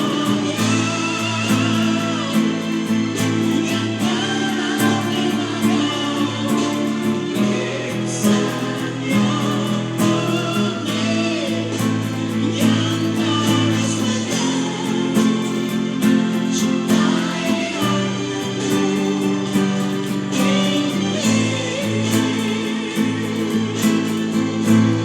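Evo nylon-string classical guitar being played over music that carries a singing voice and sustained low accompaniment.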